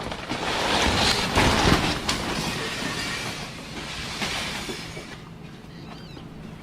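Landslide of rock and earth: a heavy rumbling with crashes in its first two seconds, easing off from about five seconds in.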